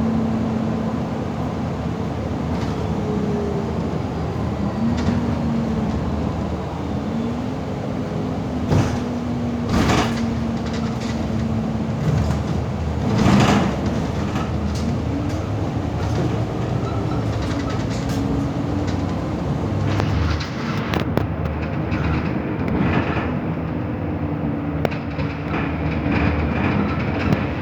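MAN Lion's City city bus driving, its drivetrain hum sliding up and down in pitch as the bus speeds up and slows, with scattered rattles and knocks from the body over the road, the loudest about thirteen seconds in.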